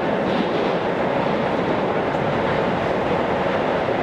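Interior running noise of a Tokyo Metro 16000 series electric train car travelling between stations: a steady, even rumble of wheels on rail.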